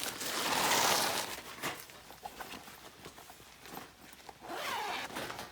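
Nylon fabric rustling and swishing as a folding camp chair's seat sheet is slid onto its poles, with a few light clicks between. The loudest swish comes in the first second and a half, and a second one near the end.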